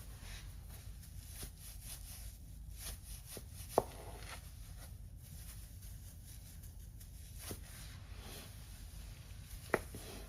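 A few sharp clicks, the loudest about four seconds in and another near the end, over a faint steady low hum.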